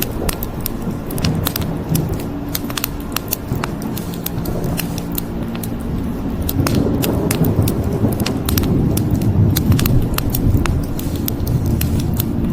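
Wood fire crackling, many sharp pops and snaps, over a low steady rumble that grows louder about halfway through.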